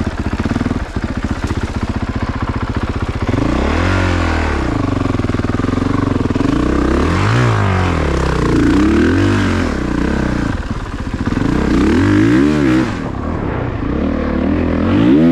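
2022 Honda CRF450RX's 450cc single-cylinder four-stroke engine at low revs, then revved up and down in short blips about once a second, as in slow, technical trail riding.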